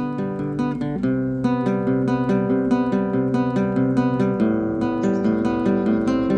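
Background music: a picked and strummed acoustic guitar with a steady rhythm.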